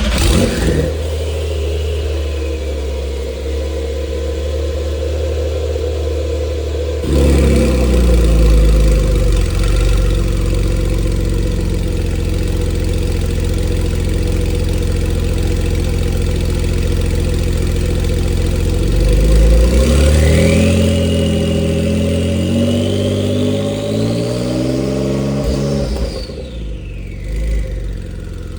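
Turbocharged car engine with a Stage 2 tune and aftermarket Soul downpipes, running at a fast cold-start idle. It gets louder about seven seconds in, and the idle drops lower near the end.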